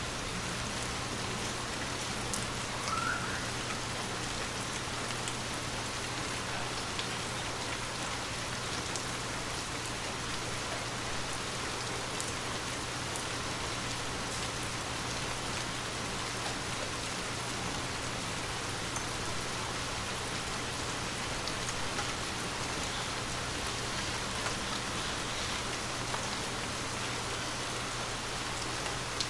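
Light, steady rain falling, with scattered individual drops ticking.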